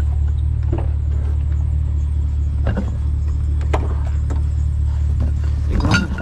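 Steady low rumble of an idling vehicle engine, with a few light knocks and clinks scattered through it.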